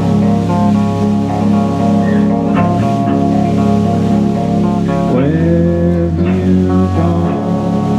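Live rock band playing loudly: guitars sustaining chords over a steady bass guitar line, with a rising slide in pitch about five seconds in.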